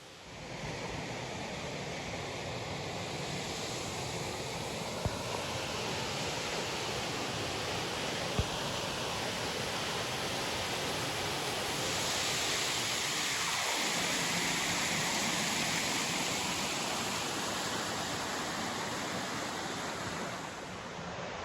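Steady rush of falling water from a waterfall, louder and brighter about halfway through. Two faint clicks come in the first half.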